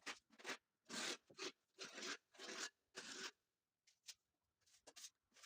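Plaster spatula scraping wet plaster onto a wall in a run of short strokes, about two a second. The strokes stop after about three seconds, and a couple of faint ones follow near the end.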